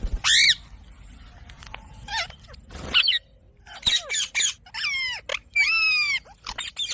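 Indian ringneck parakeet calling: a string of short, high squawks that glide in pitch, getting busier in the second half with a few longer arched calls that fall in pitch.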